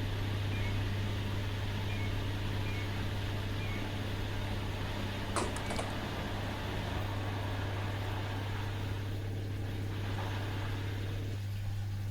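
Washing machine running with a steady low hum. A quick cluster of three sharp clicks comes about halfway through, and part of the machine's noise drops away near the end.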